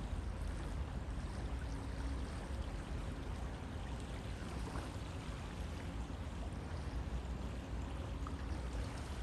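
A river flowing: a steady, even wash of water noise with a strong low rumble underneath.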